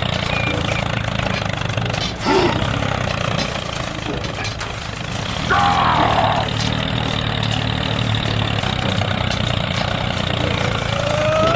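Engine idling steadily with a low, even rumble. Short pitched sounds rise and fall over it about two seconds in, around six seconds, and again near the end.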